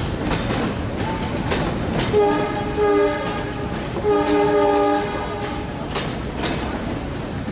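Passenger train carriages rolling past with a steady rumble and clickety-clack of wheels over rail joints. A train horn sounds twice, each blast about a second long, about two seconds in and again about four seconds in.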